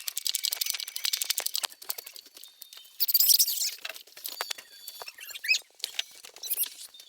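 Small bird chirping in short high bursts, amid many quick clicks and taps.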